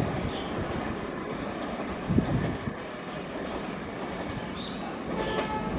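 Passenger express train running through on the track: a steady rumble of the coaches, with a single thump about two seconds in.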